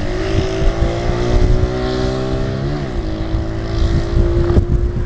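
Mini bike's small engine running hard at high revs during a drag-race launch. Its pitch dips briefly near the middle and then climbs back, with wind noise on the microphone.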